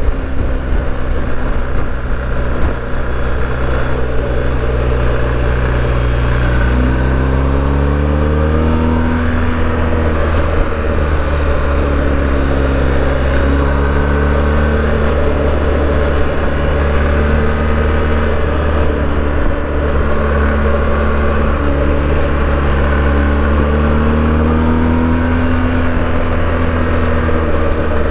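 BMW R 1250 GS motorcycle's boxer-twin engine on the move: it pulls up through the revs about six to nine seconds in, then holds a steady cruise with small rises and falls in pitch. A steady low rush of wind runs under the engine note.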